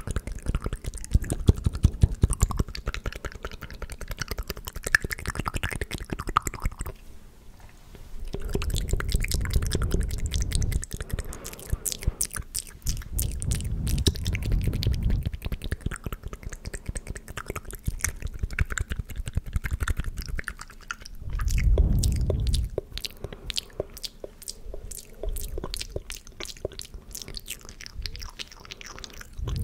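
Close-microphone ASMR mouth sounds: rapid wet clicks, smacks and lip pops in dense runs, broken by a few louder low, muffled passages.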